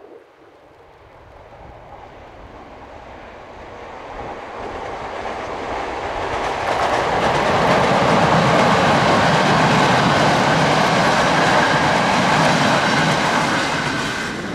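Electric-hauled passenger train crossing a viaduct. Its rumble builds as the locomotive approaches, is loudest for several seconds as the coaches pass, and fades near the end.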